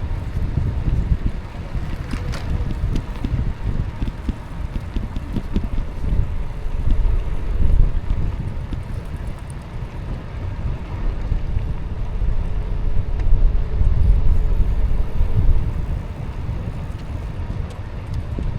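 Wind buffeting the microphone on a moving e-bike, a gusty low rumble that rises and falls, with riding noise underneath.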